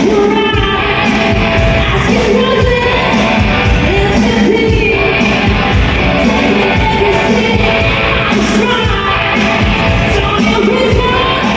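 A female vocalist singing a pop song over loud accompaniment with a steady beat.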